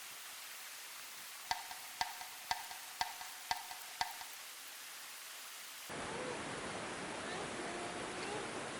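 Six evenly spaced hollow knocks with a short ring, about two a second, over a steady hiss. Near the end the hiss gives way to a louder background with rising and falling whistled chirps.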